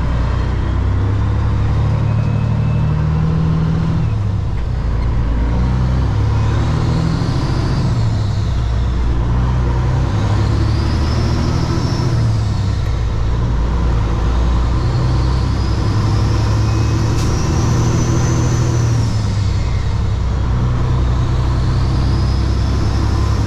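Diesel engine of a Kenworth W900 semi truck heard from inside the cab, pulling steadily with its pitch stepping up and down several times, and a faint high whistle that rises and falls with each step.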